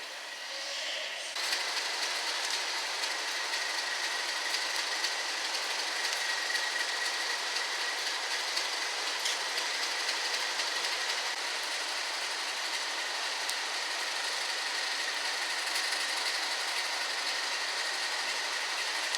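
Train moving through a station: a steady rolling noise with a thin high whine held over it, starting abruptly about a second and a half in.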